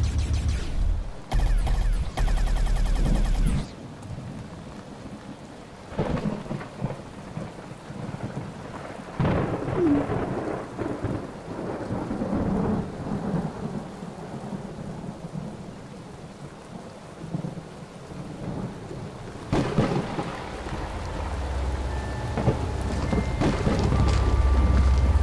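Rain falling steadily with rolls of thunder, and a loud thunder crash about twenty seconds in. A loud low hum opens the sound and cuts off after about three and a half seconds.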